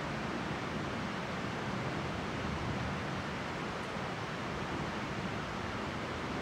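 Steady, even rushing outdoor noise with no distinct sounds standing out.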